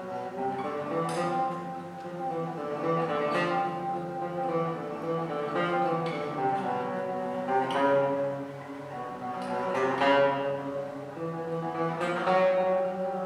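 Solo classical guitar playing chords and ringing notes, with sharply struck chords every few seconds that then sustain.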